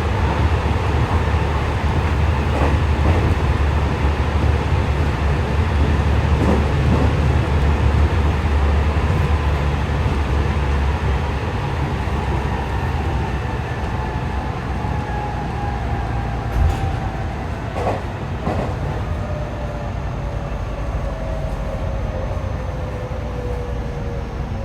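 Inside a JR West 207 series electric train running at speed: low rumble of wheels on rail with occasional rail-joint clicks. From about halfway, the traction inverter whine slides slowly down in pitch as the train slows, heard as two slightly offset tones because the motor car's two inverters run out of step.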